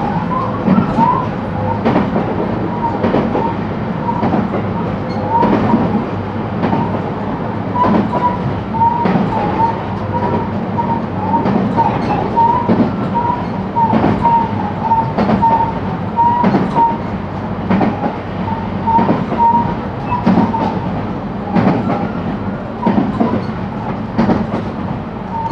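Interior running sound of a JR West 223 series electric train (motor car KuMoHa 223-2079) under way, with irregular clicks of the wheels over rail joints. A wavering high tone runs through most of it.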